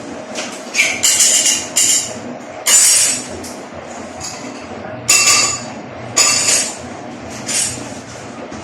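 Metallic clinking and clattering in about seven short, sharp bursts, over a steady low hum.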